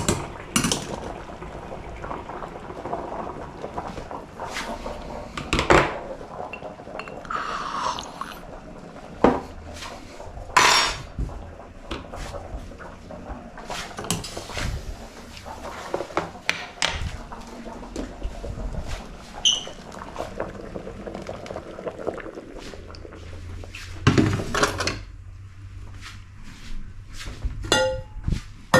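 Kitchen clatter while cooking: pots, dishes and utensils knocking and clinking, many separate irregular knocks.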